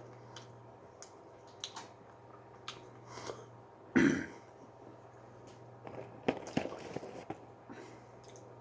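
Someone eating fries, with small clicks and rustles of handling food. About four seconds in there is a single short, loud throat-clearing cough.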